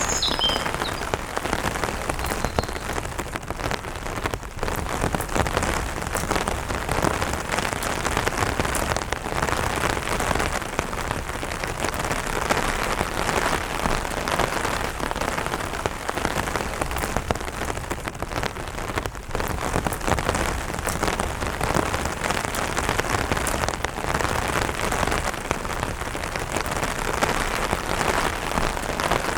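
Light rain pattering steadily on an umbrella canopy, a dense, even run of small drop impacts.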